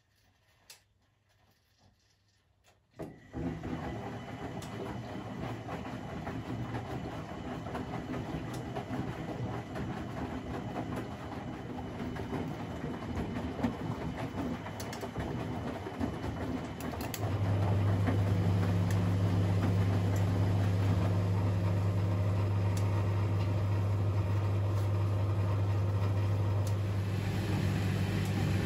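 Privileg 3001 S washing machine starting up about three seconds in: its motor and drum running with a steady mechanical rumble and clatter. Past halfway, a loud steady low hum joins in and holds.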